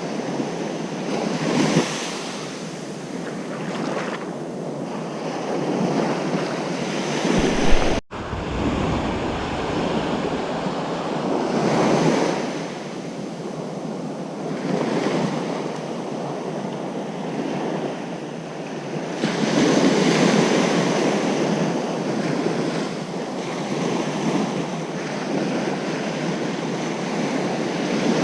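Ocean surf breaking on a beach, the wash swelling and easing every few seconds, with wind noise on the microphone. About eight seconds in, the sound cuts out for a split second, just after a low rumble.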